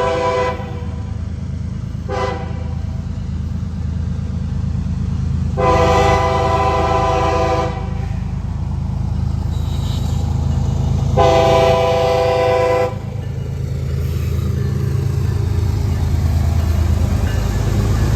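Diesel freight locomotive horn sounding a chord in four blasts, two short then two long, over the steady low rumble of the passing train.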